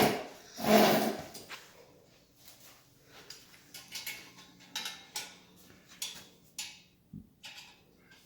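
Metal tools and motorcycle exhaust parts being handled during exhaust fitting. A loud rough scraping clatter comes in the first second, followed by scattered light clicks and taps and a single dull knock near the end.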